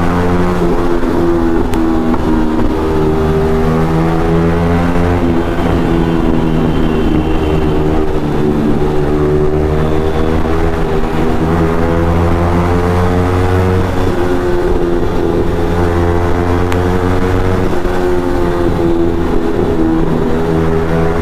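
Yamaha MT-15's single-cylinder engine through an Akrapovic exhaust, running steadily under way, its pitch slowly rising and falling with the throttle. The exhaust note echoes loudly inside a tunnel.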